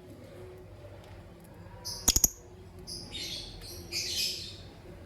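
Lovebirds chirping in short, high-pitched bursts, mostly in the second half. About two seconds in come three quick, sharp clicks, louder than the chirps.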